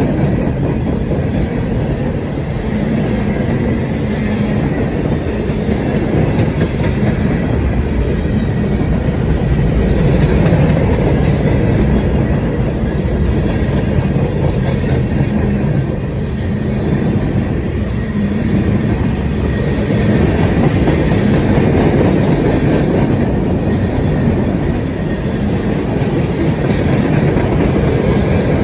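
Freight train boxcars rolling past close by: a steady, loud rumble of steel wheels on the rails with a clickety-clack from the rail joints, swelling and easing slightly as the cars go by.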